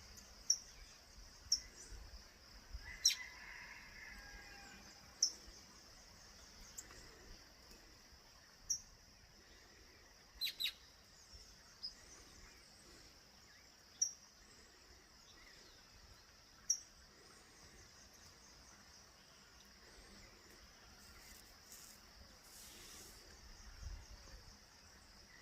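Faint natural ambience: a steady high-pitched insect trill, with short sharp high calls every second or few and a longer falling bird call about three seconds in.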